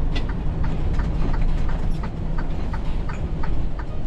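Tractor-trailer's diesel engine running, heard from inside the cab, with a rapid, even ticking of about four to five ticks a second over the engine.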